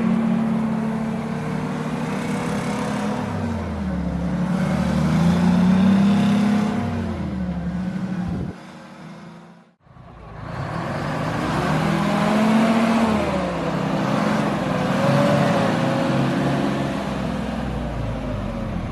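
Truck engines running and revving, their pitch rising and falling, with a brief drop-out about nine seconds in before more engine sound.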